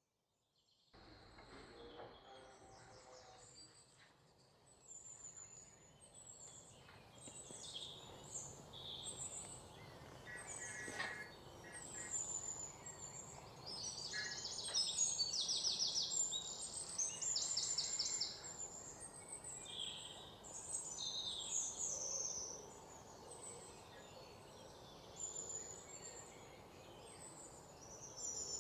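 Several small birds chirping and calling over a steady background noise, with a fast trill in the middle.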